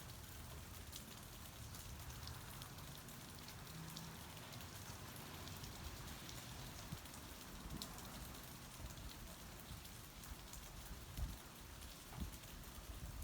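Steady rain falling, a soft even hiss full of small drop ticks, with a couple of low bumps near the end.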